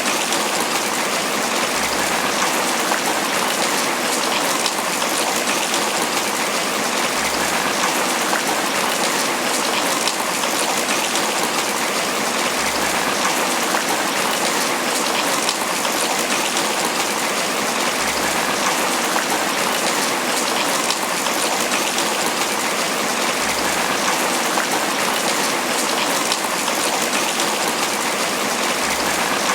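Steady tropical rain falling on banana leaves, an even, unbroken wash of drops.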